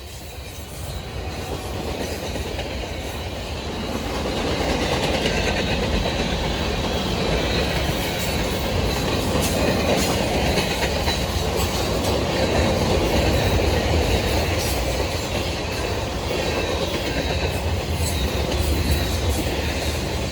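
Freight train rolling past, its car wheels clacking over the rail joints with a steady rumble that builds over the first few seconds, then holds.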